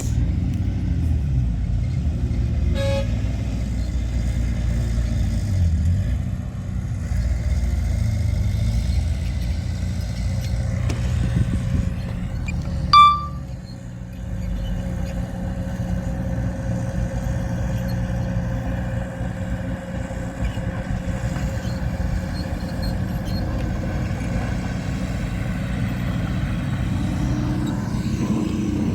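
Heavy earthmoving machinery diesel engines running steadily with a low rumble. About 13 s in comes one short, loud horn beep, with a fainter short blip of tone about 3 s in.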